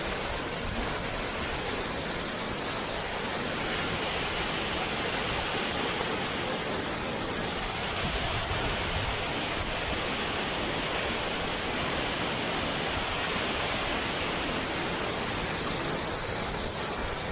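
Waterfall rushing: a steady, unbroken roar of falling and splashing water.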